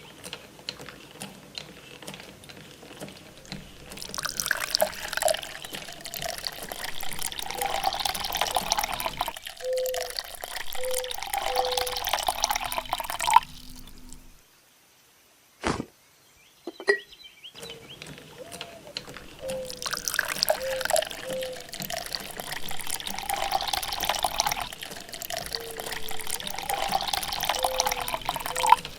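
Water pouring and splashing in two long spells, with a short pause and a couple of sharp clicks between them.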